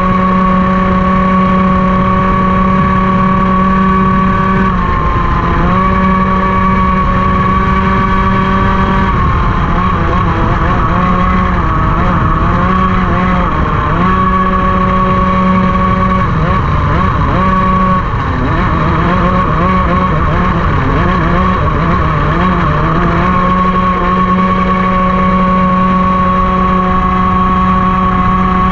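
Racing kart engine running hard at high, steady revs, its pitch dropping and wobbling several times as the kart slows through corners, then settling back to a steady note.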